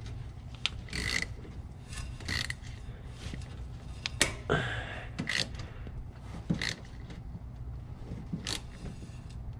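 Irregular clicks, taps and light metallic clinks of hand tools and parts being worked on a side-by-side UTV during an oil change, with a low steady hum underneath.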